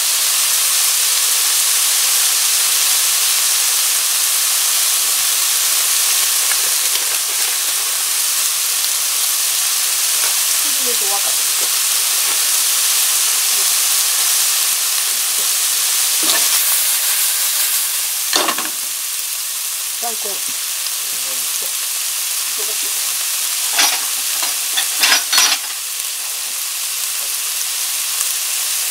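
Pork, cabbage and carrot stir-fry sizzling steadily in a stone-coated frying pan. Several sharp knocks and scrapes of a utensil against the pan come in the second half, as the food is stirred.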